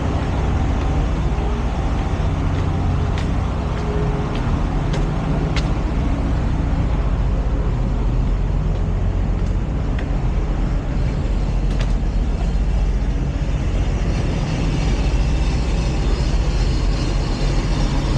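Steady low rumble of vehicle engines and road traffic, with a few faint clicks.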